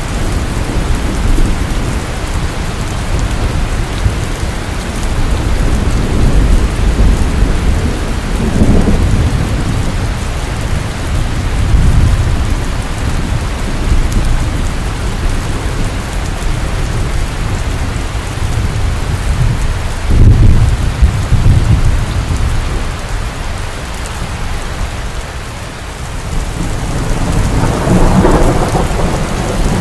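Steady rainfall with low rolling thunder rumbling in waves, heaviest about halfway through and again near the end.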